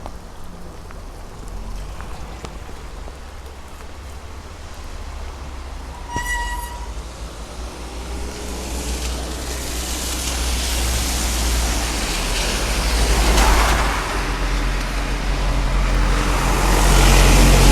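Rain shower in the street with cars hissing past on the wet road, the tyre noise swelling twice, about halfway through and again near the end. A steady low rumble runs under it, and a short electronic-sounding beep comes about six seconds in.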